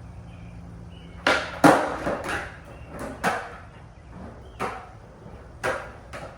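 Skateboard clattering: a string of about eight sharp wooden knocks and slaps, the loudest two coming close together just over a second in, the rest spread out singly after that.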